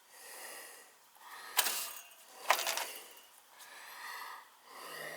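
Handling noise: two sharp clacks a little under a second apart, amid light rattling and rustling.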